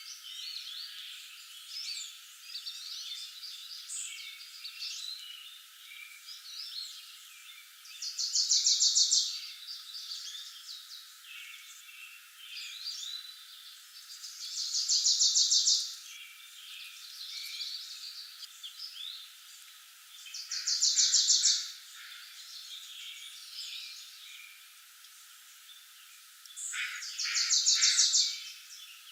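Woodland birdsong: many birds chirping and calling, with one loud rapid trill about a second and a half long that comes four times, about every six seconds.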